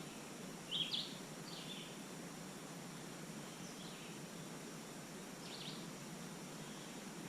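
Four short, high bird chirps over a steady low hiss of background noise; the first pair, about a second in, is the loudest, with two fainter ones later.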